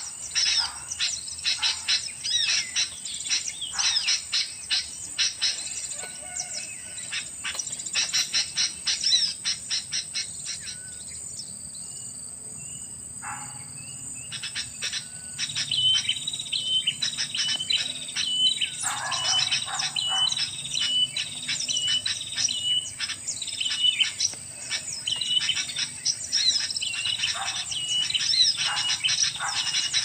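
Small songbirds chirping and calling rapidly in dense, overlapping bursts. The calls thin out for a few seconds midway, then a short note repeats at even spacing. A steady high-pitched whine runs beneath.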